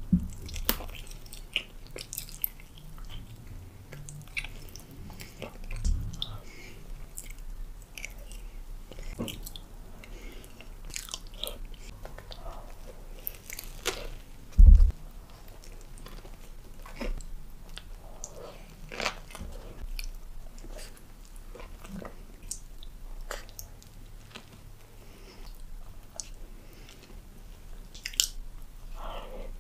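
Close-miked eating: biting into and chewing fried chicken and a crusty sandwich roll, with many short crackles and wet mouth sounds. A loud low thump comes about halfway through.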